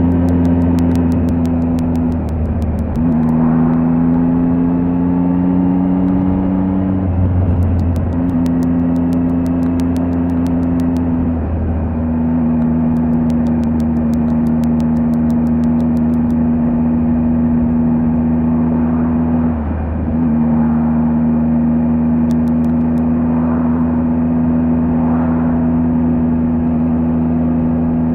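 Triumph Tiger 800 XRT's inline-triple engine running under way at a steady pitch, with the engine note dropping briefly about four times before settling again.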